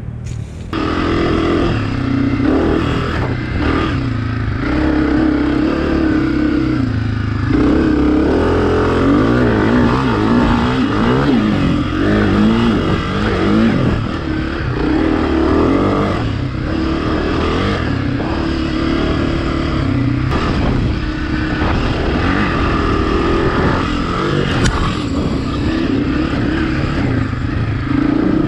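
Dirt bike engine running hard while riding, its pitch rising and falling with the throttle, with several brief drops as the throttle is rolled off or it shifts.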